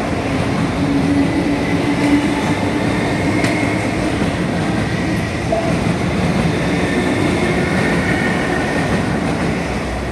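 MTR East Rail Line Metro-Cammell EMU (MLR) running out of the platform, a steady rumble of wheels and traction equipment with a low hum in the first few seconds and a faint high whine.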